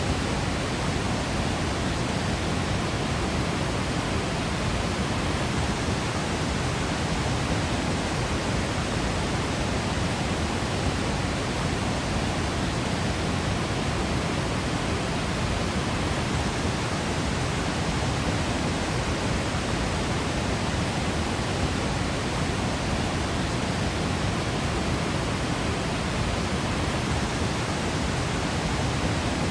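A waterfall's steady rushing noise, dense from deep to high pitch and even in level.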